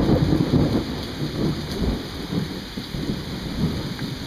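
Rolling thunder rumbling over steady rain. The rumble is loudest at the start and slowly eases off.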